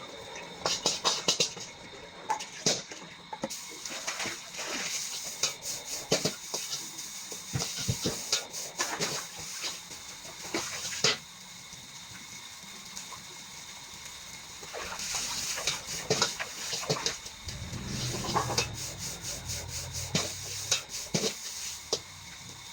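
Fried rice being stir-fried in a wok: a metal spatula clanking and scraping against the wok many times at an irregular pace over a steady sizzle, with a low rumble about three quarters of the way through.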